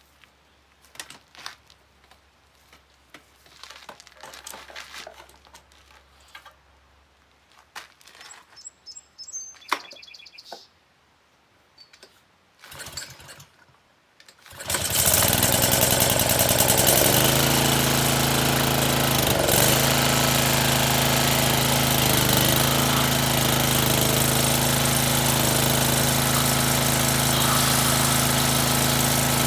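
Honda small gasoline engine on a pressure washer: some clicks and knocks of handling, then about halfway through it starts and runs steadily at high speed, its pitch dipping briefly twice.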